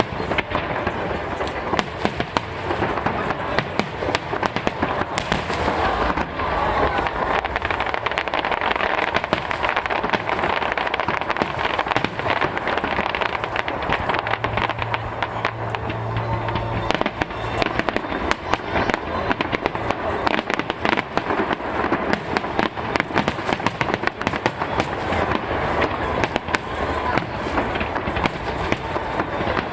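Aerial fireworks going off in rapid succession: a dense, continuous run of bangs and crackles.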